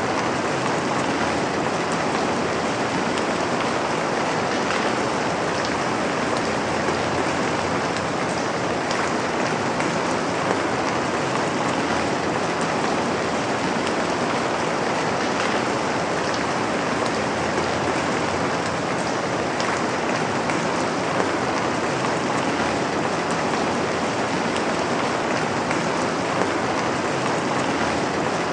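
Steady rain falling, an even hiss of many drops with faint scattered patters and no change in intensity.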